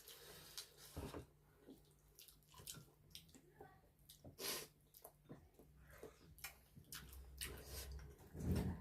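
Close-up eating sounds: irregular wet chewing, lip-smacking and small clicks from a mouth.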